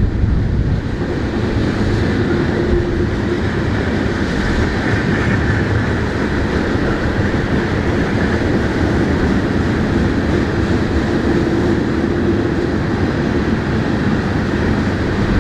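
Norfolk Southern freight train rolling past, a steady, loud noise of cars and wheels on the rails.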